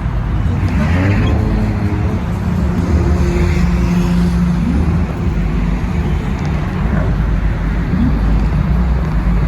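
Car engine exhaust rumbling loudly, with quick revs about a second in and again near seven and eight seconds, and a held higher-rev stretch between.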